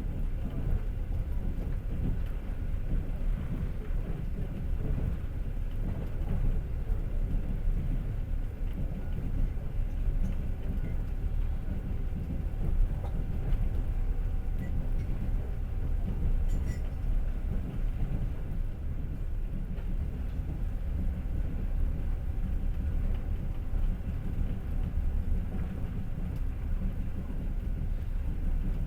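Passenger train running steadily, its wheels rumbling and clattering on the rails, heard from inside the carriage.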